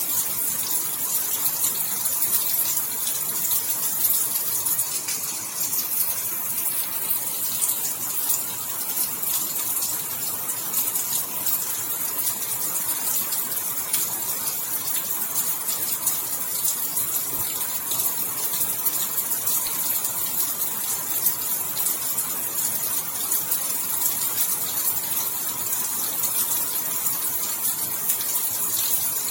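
Steady rain falling: a dense, even hiss of countless drops with fine pattering throughout.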